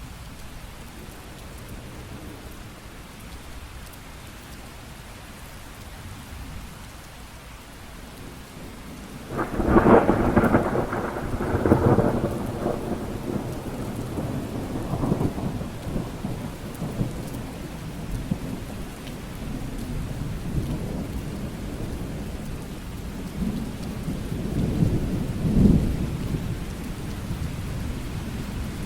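Steady rain with thunder: a sudden thunderclap about a third of the way in that rumbles on for several seconds, and a second, softer roll of thunder near the end.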